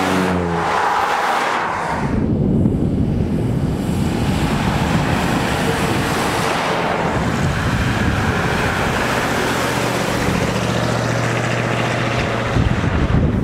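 Vintage cars driving past on a road: the engine note of the first car drops in pitch as it sweeps close by, then the engines of further classic cars run steadily as they come along and pass.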